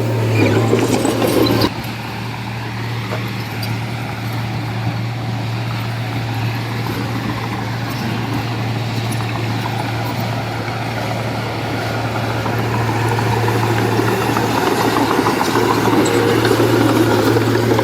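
Diesel engine of heavy construction machinery running steadily. It is louder at first, drops suddenly about two seconds in, then slowly builds louder again toward the end.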